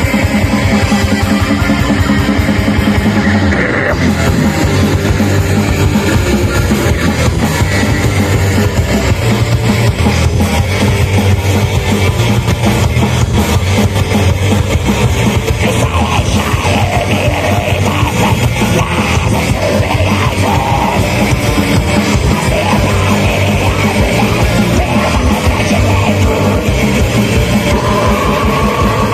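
Live metal band playing at full volume: distorted electric guitars, bass and a drum kit hammering out a fast, dense beat without a break.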